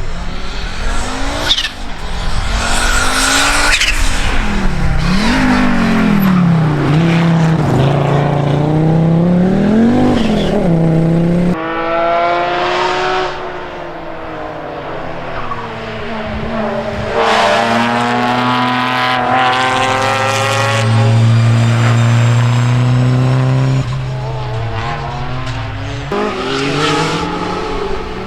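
Historic rally cars driven hard on a stage, engines revving up and falling back through gear changes and corners. The sound changes abruptly about a third of the way in and again near the end, as a different car takes over.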